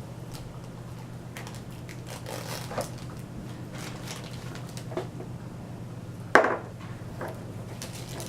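Handling of plastic toy packaging: scattered rustles and clicks, with one sharp clack about six and a half seconds in, over a steady low hum.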